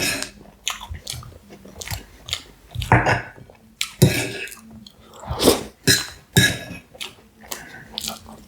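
Close-miked chewing of a mouthful of pie, with irregular sharp mouth clicks and smacks.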